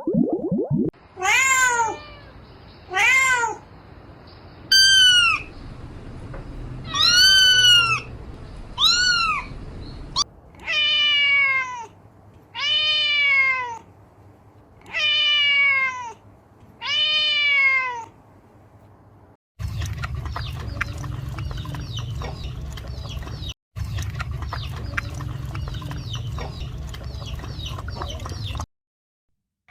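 Kitten meowing over and over, about nine high pitched meows, each rising then falling in pitch. In the last third a steady low rumble takes over, with faint meows in it.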